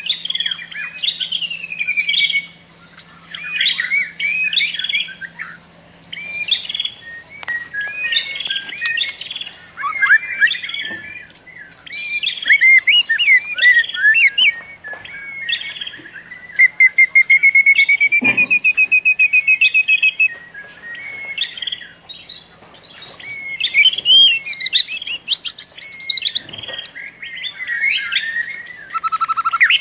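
Songbirds chirping and singing in a busy run of short, overlapping calls, with one long, even trill held for about four seconds a little past the middle.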